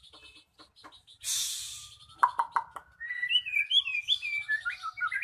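White-rumped shama (murai batu) singing. A few faint ticks and a short hiss come first, then four sharp chirps, then a fluid, varied warbling phrase of gliding whistled notes.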